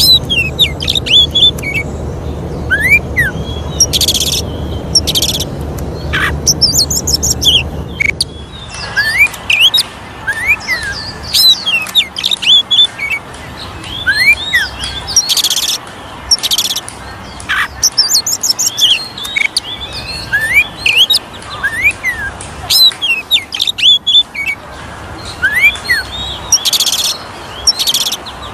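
Oriental magpie-robin (kacer) singing a fast, varied song of sweeping whistles and chirps broken by harsh buzzy bursts, possibly with more than one bird answering. A low background rumble sits under the first eight seconds and then cuts off.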